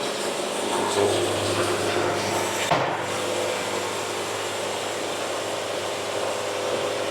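Sawn boards being pulled off a band sawmill and stacked: wooden knocks and scraping, a couple of sharp clacks about a second in and near three seconds, over the steady hum of the running mill.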